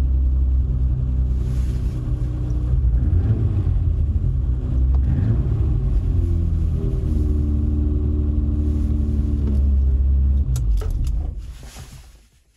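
The engine of a turbocharged, Megasquirt-controlled 1987 BMW 325 (E30) idling, heard from inside the cabin, its idle speed shifting slightly a couple of times. About ten and a half seconds in it is switched off, and the sound dies away over the last two seconds with a few clicks.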